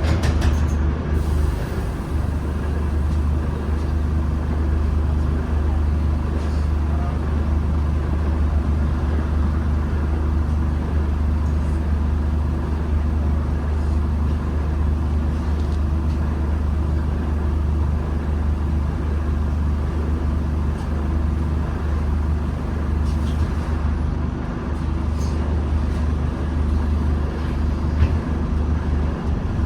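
Interior of a Scania N230UD Omnicity bus under way: a steady low diesel engine drone with road noise, and a few light rattles near the start.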